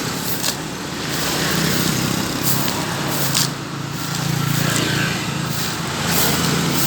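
A motor vehicle engine running steadily, with several short scraping swishes over it.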